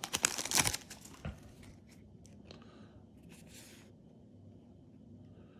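Foil booster pack wrapper crinkling and tearing for the first second or so, then a few faint rustles and ticks of cards being handled.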